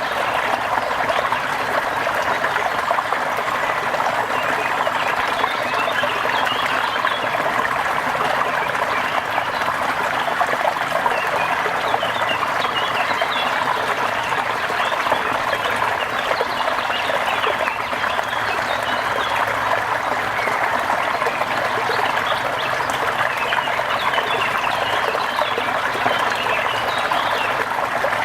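A steady, even wash of water noise, rain or running water, with faint short chirps from small animals scattered over it.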